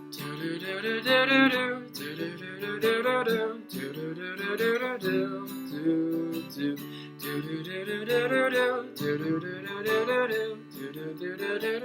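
Acoustic guitar strummed and picked through an instrumental break in a slow pop song, with a repeating chord pattern.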